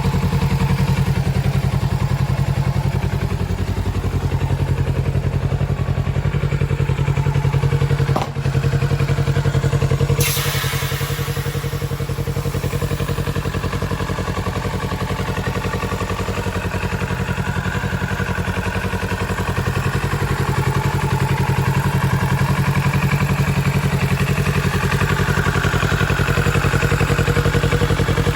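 Kawasaki Z650RS 649 cc parallel-twin engine running steadily at idle. It dips briefly about eight seconds in, and a hiss comes in suddenly about ten seconds in and slowly fades.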